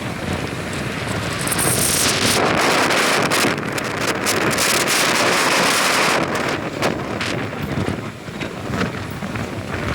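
Monsoon wind and rain, a steady rushing noise with wind buffeting the microphone, swelling for a few seconds in the middle and then easing.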